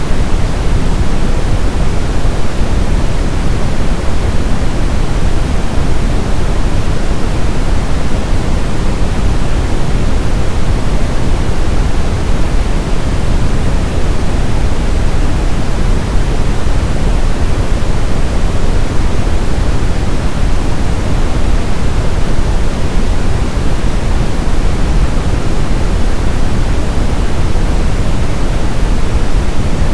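Steady brown noise (red or Brownian noise): an even, unbroken hiss-like rumble, strongest in the low end and falling off toward the highs, with no tones or events.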